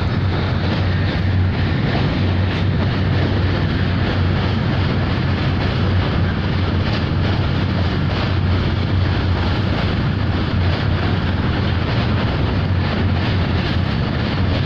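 Train running steadily: a loud, even rumble with a strong low hum underneath.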